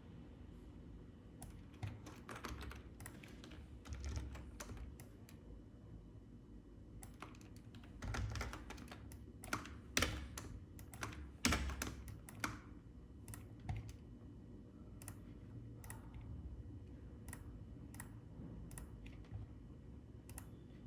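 Computer keyboard keys and clicks pressed in irregular clusters, busiest around the middle and sparse toward the end, over a low steady hum.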